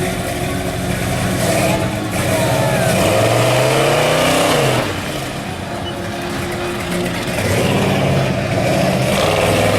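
Monster ride truck's engine revving. The pitch climbs about three seconds in, falls back near five seconds, then rises again for the rest of the stretch.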